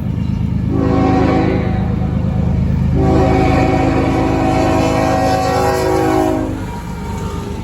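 Diesel locomotive's multi-chime air horn on a CSX intermodal train: a short blast about a second in, then a long blast of about three and a half seconds, in the pattern of the closing short-and-long of a grade-crossing signal. Underneath is the steady rumble of the approaching locomotive and train.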